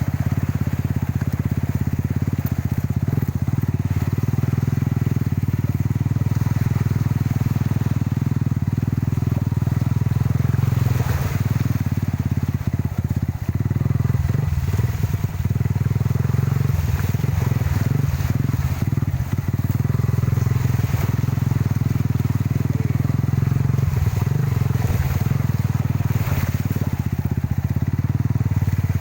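Truck engine running steadily under load with a deep, even drone, with scattered knocks and rattles through the middle stretch.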